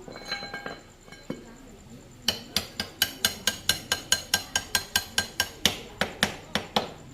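Lighter metal clinks, then a steady run of sharp, ringing hammer blows on metal, about four a second, starting a little over two seconds in.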